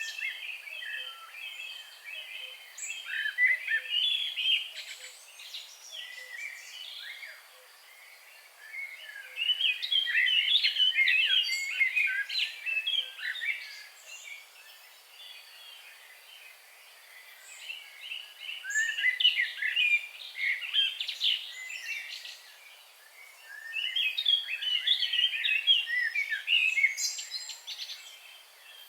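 Songbird song in bouts of rapid, jumbled twittering phrases a few seconds long, broken by quieter pauses, over a faint steady background hiss.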